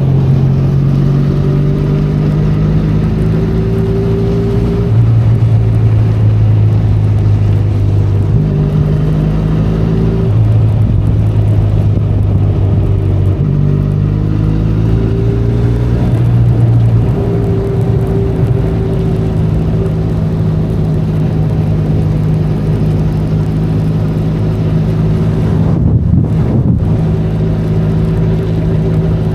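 Benelli Leoncino 500 Trail's parallel-twin engine running on the move, its pitch stepping up and down every few seconds with throttle and gear changes, over a steady hiss of wind and rain.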